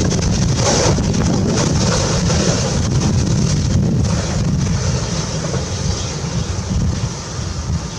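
P36 steam locomotive running with a heavy low rumble and hiss and faint, roughly regular exhaust beats, growing fainter as it draws away. Wind buffets the microphone.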